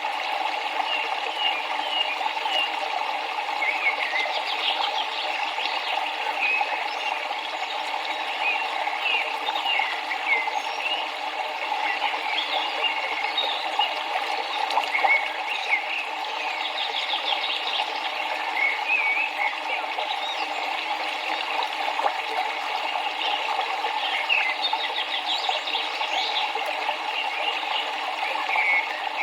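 Many short bird chirps and twitters, scattered and overlapping, over a steady rush of flowing river water.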